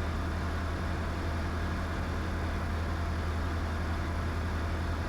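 Diamond DA20's piston engine and propeller droning steadily in flight, heard from inside the cockpit.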